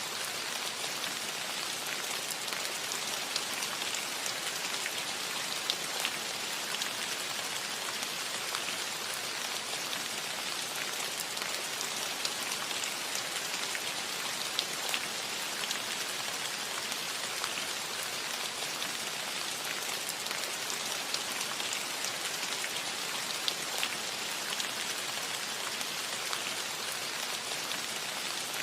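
Steady rain falling on a roof, a dense even patter with scattered sharper individual drop hits.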